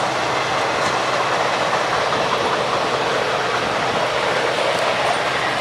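Passenger coaches of a long train rolling past, steel wheels running on the rails with a steady noise.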